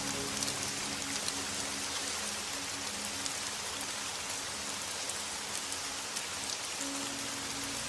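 Steady rain falling on a surface, with many separate drop hits heard through the even hiss.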